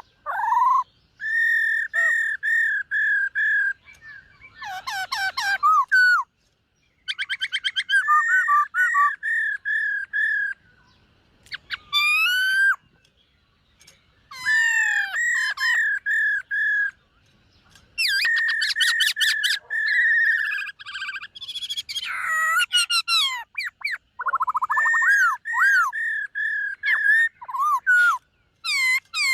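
Black-throated laughingthrush singing: phrases of repeated whistled notes, fast trills and swooping up-and-down glides, each phrase a second or two long with short pauses between.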